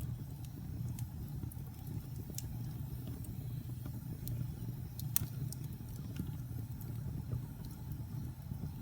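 Wood fire in a fireplace burning with a steady low rumble and scattered, irregular sharp crackles and pops, the loudest pop about five seconds in.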